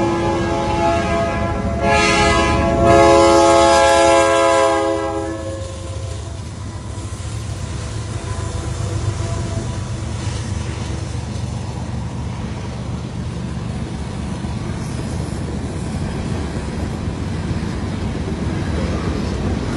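CN train horn sounding and stopping about five seconds in, followed by the steady rumble of the train rolling by, with wheels clacking over the rail joints.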